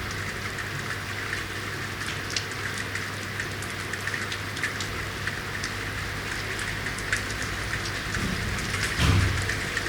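Rain falling on city surfaces: a steady hiss with scattered sharp drips, over a steady low hum. About nine seconds in comes a brief louder low thump.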